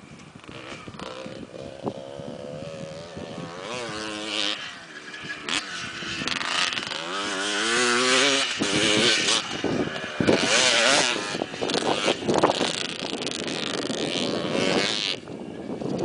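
Motocross bike engine revving up and down repeatedly as it rides, growing louder about halfway through.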